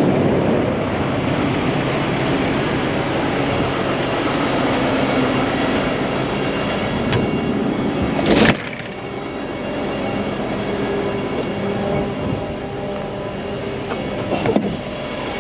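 Heavy truck diesel engine running steadily, with a short, loud burst like an air hiss about halfway through, after which the sound is a little quieter.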